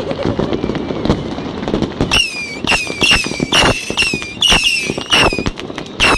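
Fireworks going off: a dense crackle at first, then from about two seconds in a quick run of sharp bangs, about two a second, each followed by a short falling whistle.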